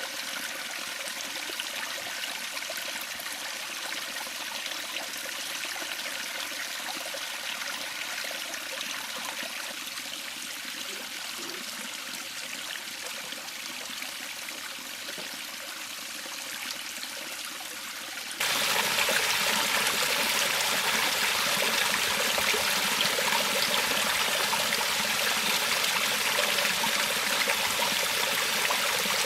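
River water flowing over stones in a steady rushing, trickling wash. About two-thirds of the way through it jumps abruptly to a louder, brighter rush.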